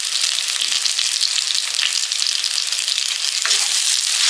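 Onion and ginger-garlic paste sizzling steadily in hot oil in a pan, with a wooden spatula stirring and scraping through it near the end.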